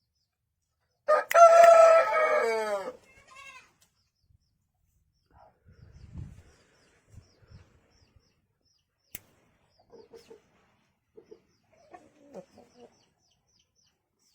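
A rooster crows once, a loud call of nearly two seconds that drops in pitch at the end, about a second in. A few short, faint clucks follow near the end.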